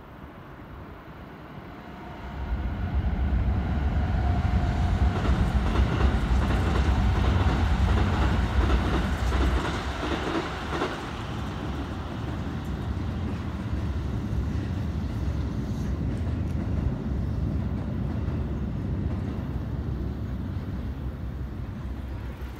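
Keikyu electric train passing, a heavy rumble with wheels clacking over rail joints. It swells suddenly about two seconds in, is loudest over the next several seconds, then eases to a steadier, quieter rumble.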